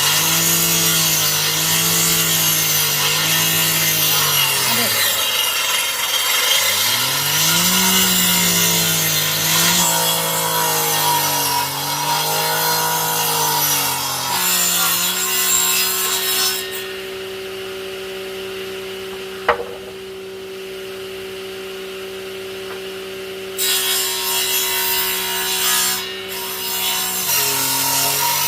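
Electric power saw cutting wood: the motor's pitch sags under each cut and recovers, with a loud rasp of the blade in the wood. About halfway through it stops cutting and runs free with a steady, quieter hum, with one sharp click in the middle of that stretch.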